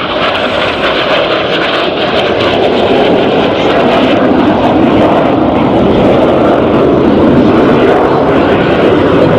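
Loud aircraft engine noise from a display aircraft flying past, growing louder from about three seconds in.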